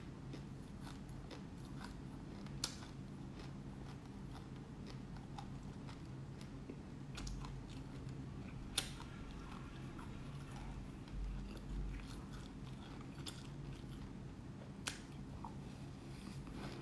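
A person chewing black sesame seeds close to the microphone: small scattered crunches and clicks, three of them sharper and louder, over a steady low hum.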